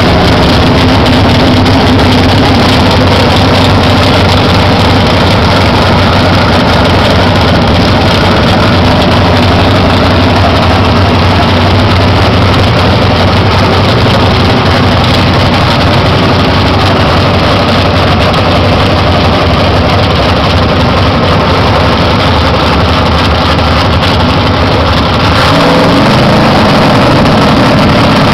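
Drag car's engine running loudly and steadily while it sits staged at the starting line, then revving up near the end.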